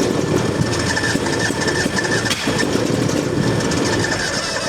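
Old skid steer's fuel-injected gas engine cranking over on the starter without catching, a steady churning run that cuts off about half a second after the end. It is hard-starting in the cold.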